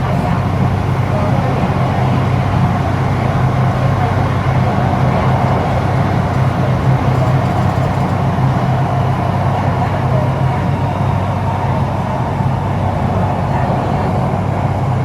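HCMC Metro Line 1 train running between stations, heard from inside the car: a steady rumble with a low hum from the wheels on the rails and the drive.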